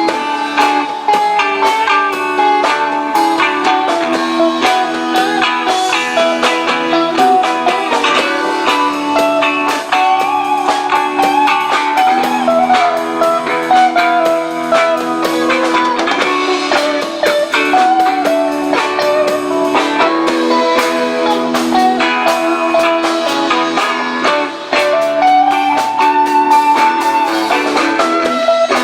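Rock band playing an instrumental passage: a guitar lead line with bent, gliding notes over sustained chords and a steady drum beat.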